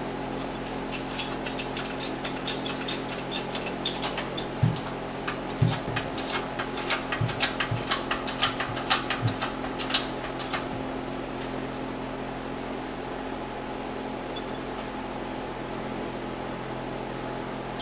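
Shop press being worked against a U-joint stuck in a driveshaft yoke: irregular small metal clicks and a few light knocks for about the first ten seconds, over a steady fan-like hum that continues alone afterwards. The U-joint is stuck and not moving.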